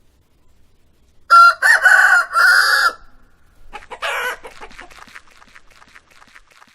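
Rooster crowing once about a second in, a loud cock-a-doodle-doo in three parts, followed by a short call and a run of quick clucks that fade away.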